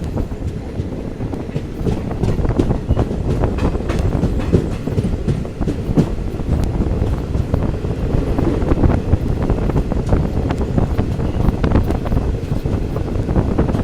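Indian Railways passenger express running: a steady, loud rumble of the coaches, with wheels clicking over rail joints throughout.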